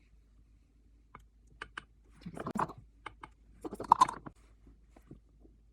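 Scattered light clicks and taps of small objects being handled, with two busier clusters about two and a half and four seconds in.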